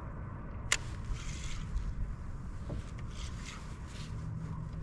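Low rumble of wind and water around a kayak, with one sharp click a little under a second in and a few faint rustles.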